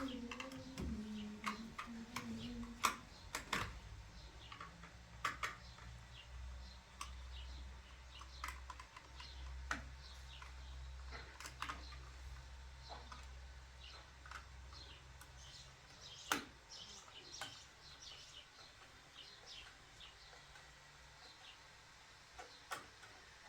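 Scattered light clicks and taps at irregular intervals, one sharper click about 16 seconds in, over a faint low hum.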